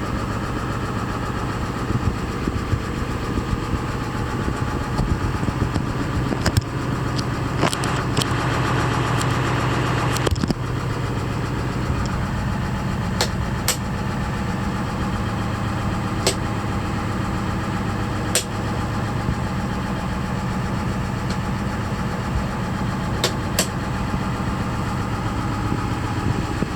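1993 International 4600 dump truck's engine idling steadily after a cold start, with a few sharp clicks now and then.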